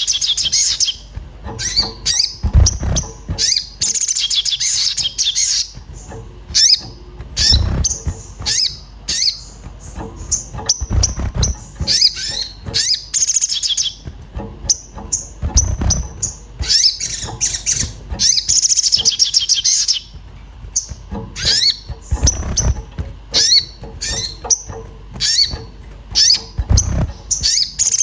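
Agitated crimson sunbird (sogon) giving rapid, repeated high 'cuit cuit' chirps in quick bursts, the excited calling used as a prompting sound for caged birds. A few low thuds come in between the chirps.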